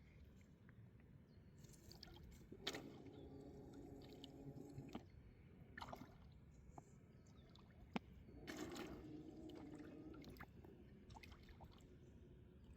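Near silence outdoors, with a few faint clicks and two brief stretches of faint rustling.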